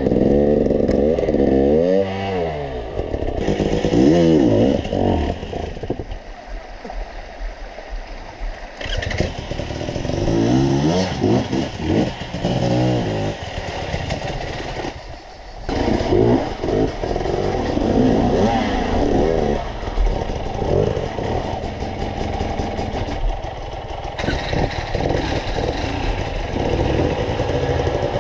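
Enduro motorcycle engine revving up and dropping back over and over, the pitch rising and falling every second or so. It eases off for a quieter few seconds about a quarter of the way in and cuts briefly about halfway.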